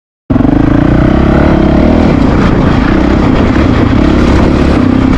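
Honda CRF450RL's single-cylinder four-stroke engine running loud and steady while the bike is ridden, cutting in abruptly a moment in, with a slight rise and fall in revs.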